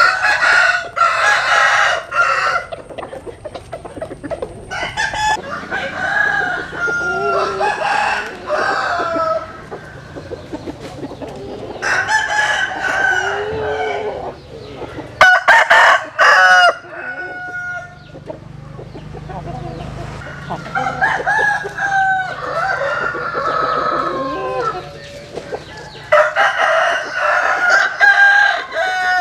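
Several roosters crowing one after another, with chickens clucking between the crows. The loudest crows come near the start, about halfway through and near the end.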